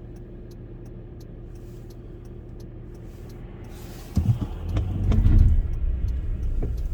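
Car engine running with a steady low hum; about four seconds in, a louder rumble with a few knocks sets in.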